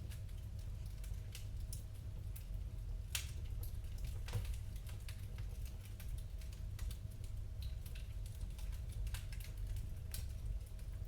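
Wood fire crackling in a fireplace: irregular sharp snaps and pops over a steady low rumble, with two louder pops about three and four and a half seconds in.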